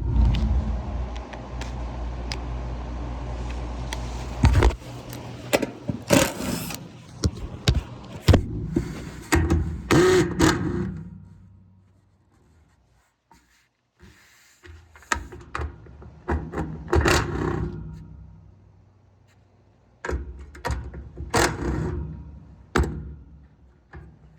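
Irregular metal clanks, knocks and scrapes as the hood panel of an HVAC unit is handled and worked loose, in clusters with a short lull about halfway. A low steady rumble underlies the first four seconds or so.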